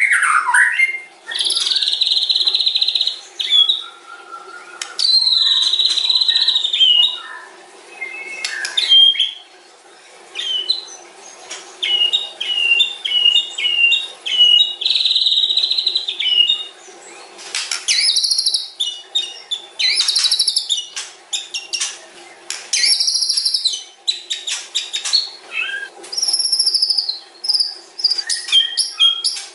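White-rumped shama (murai batu) singing a long, varied song of clear whistles, rapid chattering notes and short trills, phrase after phrase with brief gaps.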